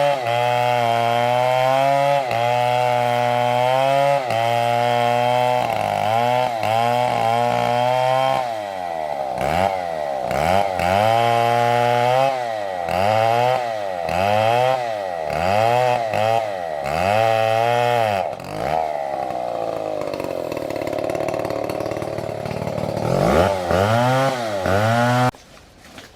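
Large two-stroke chainsaw cutting into a big tree at full throttle for the first several seconds. It then revs up and down about once a second for roughly ten seconds, runs lower and steadier for a while, and stops suddenly near the end.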